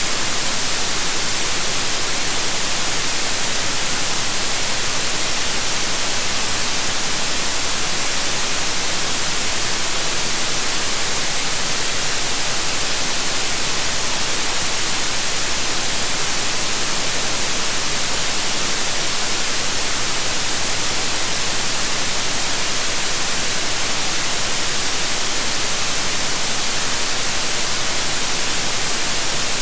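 Steady synthetic white noise, an even hiss that stays unchanged, weighted toward the high end.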